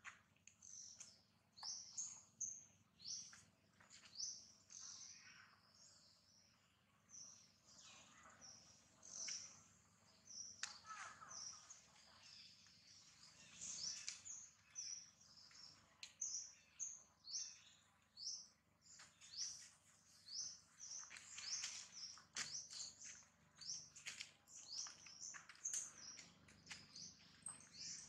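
Small birds chirping, many short high calls coming in quick runs with brief pauses between them.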